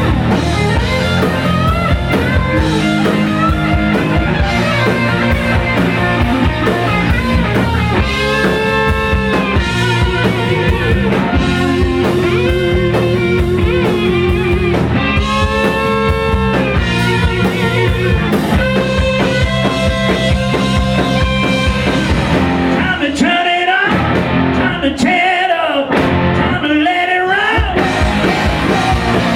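Rock music with electric guitar over a steady beat, the held notes bending and wavering.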